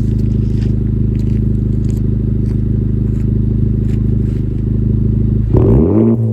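Honda Civic Type R (FK8) turbocharged four-cylinder idling steadily through an AWE Track Edition cat-back exhaust, then a quick throttle blip near the end: the revs rise sharply and start to fall back.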